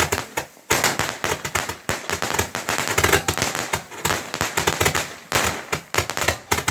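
Firework barrage going off in a fast, dense string of sharp cracks and bangs, many a second.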